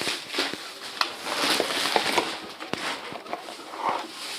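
A pet parrot moving about, with scattered clicks and rustling and a few short, soft squeaky calls.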